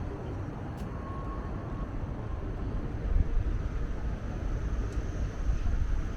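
Distant city traffic noise: a steady, noisy low rumble with no distinct events.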